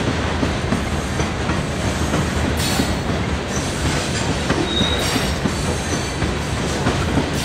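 Covered hopper cars of a potash freight train rolling past: a steady rumble and clatter of steel wheels on the rails, with a brief high wheel squeal a little before five seconds in.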